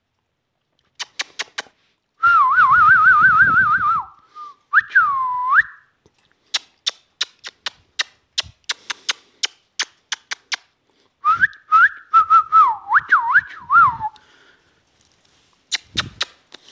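Parrot whistling: a fast-wavering trill and swooping up-and-down whistles, twice, with a run of sharp rapid clicks between them and a few more near the end.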